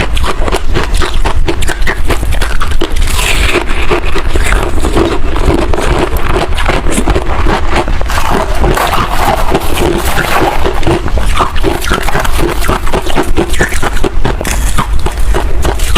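Freezer frost being chewed: loud, crisp crunching in a dense, unbroken run.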